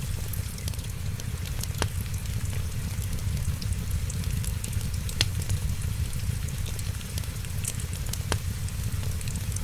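Wood fire crackling steadily over a low rumble and hiss, with three sharp pops: about two seconds in, just past halfway, and near the end.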